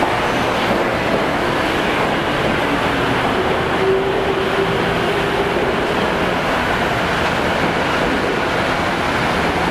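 Commuter train running at a station platform: a steady rumble of wheels on rail, with a faint hum that comes in for a couple of seconds midway.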